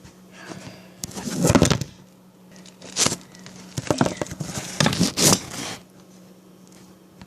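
Kitchen things being handled: rustling and scraping about a second in, then several sharp clicks and clatters. A steady low hum runs underneath.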